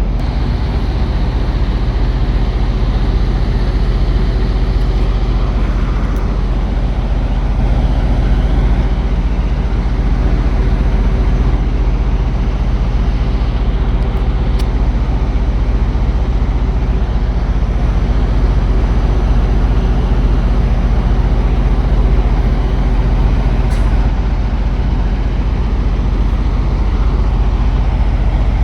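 Truck diesel engine idling steadily: a low, even drone.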